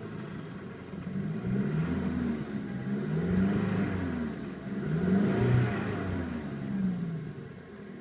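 2007 Mazda 3's 2.3-litre four-cylinder engine revved twice from idle, the pitch climbing and falling back each time, then settling to idle near the end.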